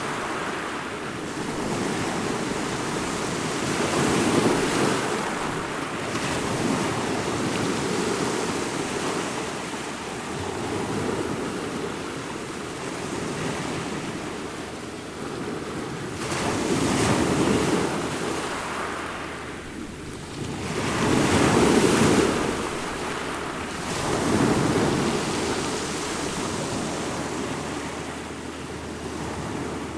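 Ocean waves breaking on a shore, a steady wash of surf that swells into louder crashes every few seconds, the loudest near the end of the second third.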